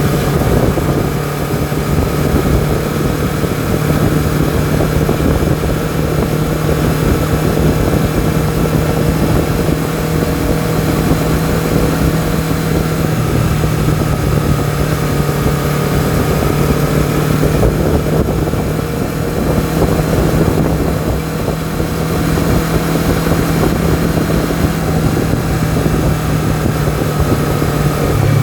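Honda CBR250RR's parallel-twin engine and exhaust running at a steady engine speed while riding, with wind noise on the microphone.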